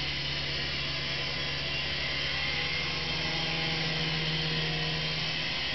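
Syma S109 Apache toy RC helicopter's small electric motors and rotors whirring steadily in hovering flight: an even high whir over a low hum.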